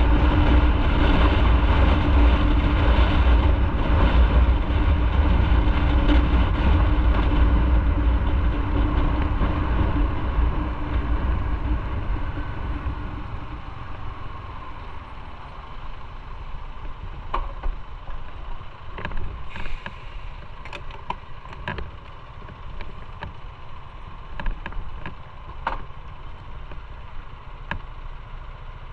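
Motorcycle riding noise, engine and rushing air, that dies down over the first half as the bike slows. After that the engine runs at a quieter idle, with a few scattered clicks.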